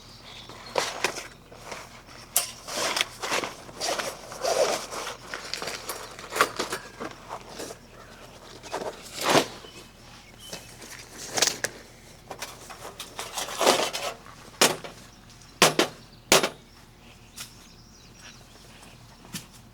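Irregular handling noises: scattered clicks, light knocks and rustling scrapes, with two sharp clicks a little over halfway through.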